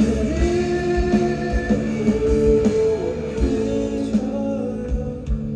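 Live rock band music between sung lines: sustained melodic notes over a steady drum beat, recorded from the audience.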